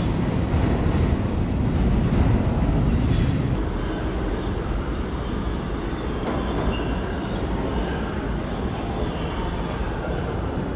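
New York City subway train running on the rails through an underground station: a loud rumble and rattle of wheels that falls off about three and a half seconds in, leaving a quieter, steady running noise.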